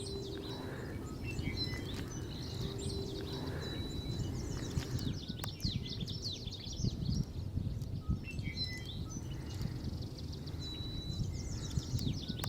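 Wild birds calling: many quick high chirps and twittering notes with a few held whistled notes, coming in clusters, over steady outdoor background noise.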